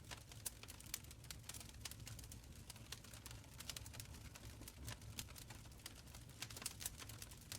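Wood fire crackling in a stone fireplace: many small sharp pops and snaps at an irregular pace, over a soft low rumble of the flames.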